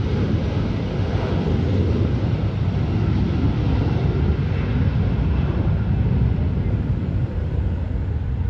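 Jet airliner engines, a loud, steady low rumble.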